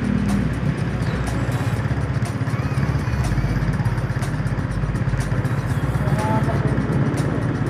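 Rusi Passion SC125 scooter's 125 cc single-cylinder engine idling with a steady, rapid low pulse.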